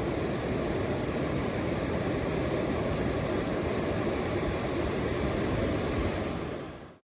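Steady rush of ocean surf on the beach, fading out near the end.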